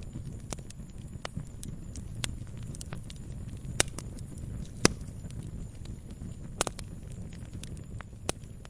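Wood fire burning in a fireplace: a steady low rumble with irregular crackles and pops, the sharpest about four and five seconds in and again near six and a half.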